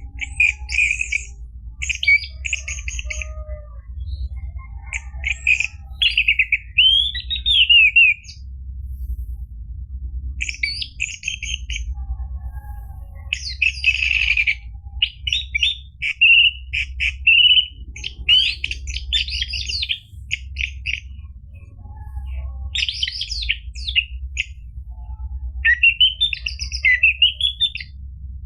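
Orange-headed thrush singing: phrase after phrase of quick chirps, trills and rising whistles with short pauses between, over a steady low hum.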